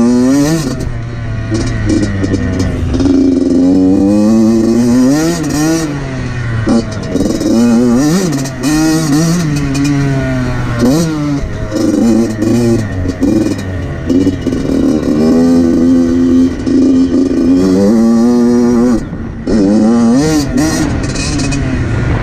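Two-stroke single-cylinder engine of a 2014 Yamaha YZ85 dirt bike being ridden hard, its pitch repeatedly climbing as it revs and dropping back at each shift or throttle-off. There is a short lull about nineteen seconds in.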